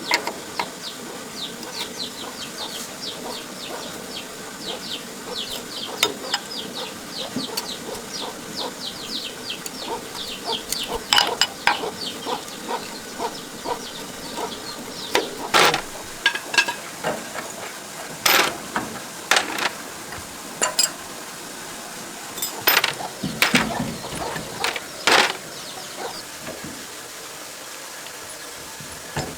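Hand-tool work on a farm tractor: a fast run of light metallic clicks, about three or four a second, as from a ratchet wrench, then a series of separate sharp metal clanks and knocks from about ten seconds in.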